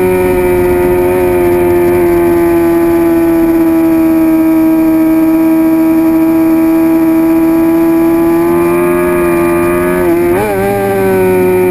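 2006 Suzuki GSX-R750's inline-four engine running hard at high revs, its pitch sagging slowly and climbing back, with a brief dip and jump in pitch about ten seconds in.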